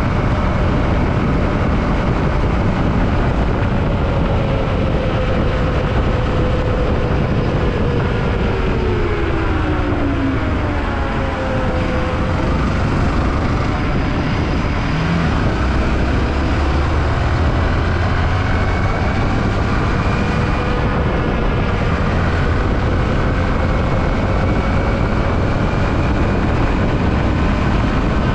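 Yamaha WR155R's single-cylinder engine running while riding, its pitch dropping about a third of the way through and climbing again later, under a steady rush of wind and road noise.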